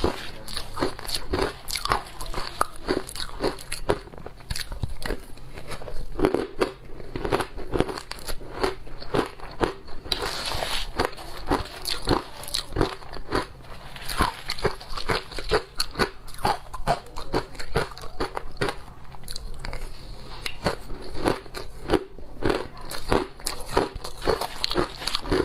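Someone biting and chewing shaved ice, with a dense, irregular run of crisp crunches several times a second.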